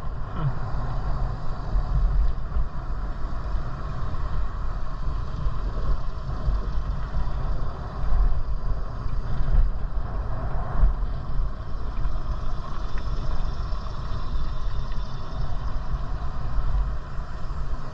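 Wind buffeting the microphone of a moving bicycle rider, a steady low rumble that swells briefly now and then.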